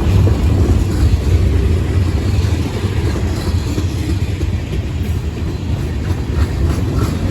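Freight train rolling past with a steady, heavy low rumble of wheels on the rails.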